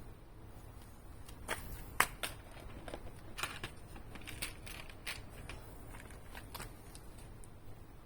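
A run of irregular light clicks and knocks, the loudest about two seconds in, as tools and parts are handled during a motorcycle oil change.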